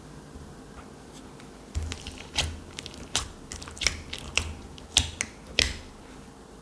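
Slime being pressed and worked by hand, giving a run of sharp clicking pops that start about two seconds in and come several to the second.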